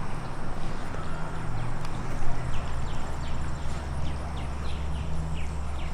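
Small birds chirping over and over in short, quick, falling notes, over a steady low hum.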